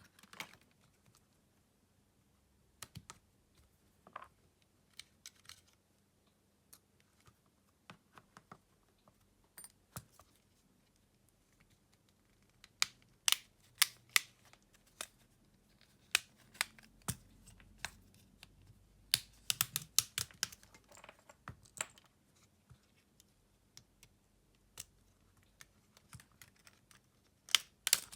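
Light, irregular clicks and taps of small repair tools and parts against a Xiaomi Redmi Note 11 smartphone being taken apart, coming in clusters with the busiest runs in the middle and near the end.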